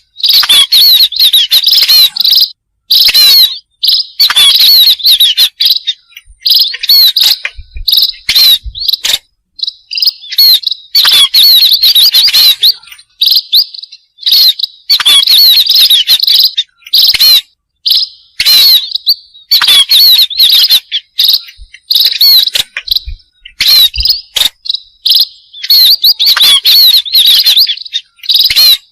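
Pipit birds (small seed-eating songbirds such as munias) chirping: loud bursts of rapid, high chirps, each lasting a second or two with short gaps between.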